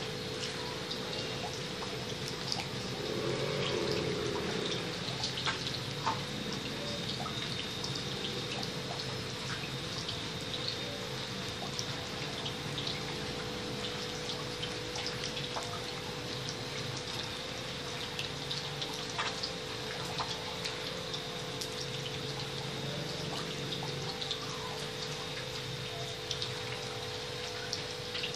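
Refrigerator compressor running with a steady hum while refrigerant trickles through the lines during an R134a charge, with a running-water, dripping sound and scattered small ticks.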